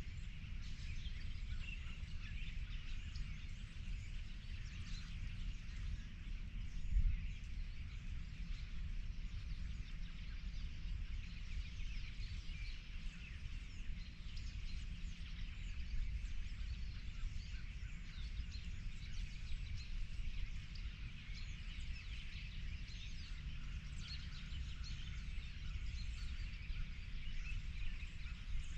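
Many small songbirds chirping and singing over a steady low rumble, with one brief low thump about seven seconds in.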